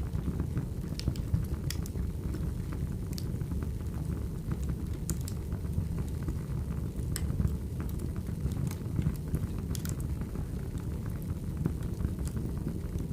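Firewood burning: a steady low rumble of flames with scattered sharp crackles and pops.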